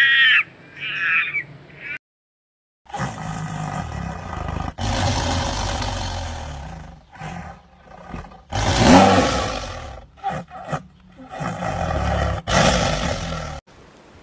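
A few short high calls, then a brief silence, then a tiger growling and roaring in about five long bursts.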